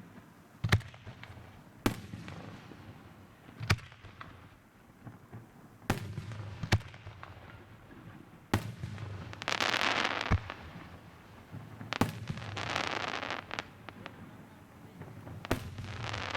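Fireworks display: aerial shells bursting in sharp booms, one every second or two, with three longer spells of dense crackling, the first about halfway through and the last near the end.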